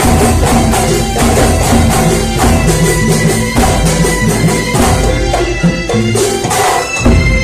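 Kuntulan ensemble playing traditional music: frame drums and jingles beating a fast, steady rhythm under long held melodic notes.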